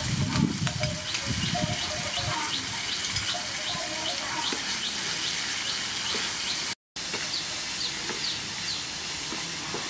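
Stir-fry of sea snails with carrot and young green pepper sizzling and simmering in a frying pan, with sauce poured in near the start; birds chirp repeatedly over the steady hiss. The sound cuts out briefly about two-thirds of the way through.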